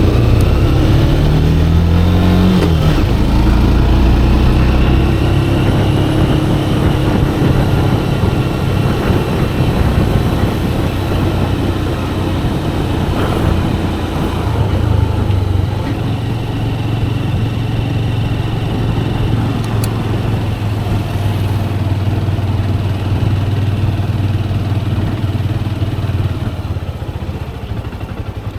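Motorcycle engine running under way, rising in pitch as it accelerates about two seconds in, then holding a steady note, with wind and road noise throughout.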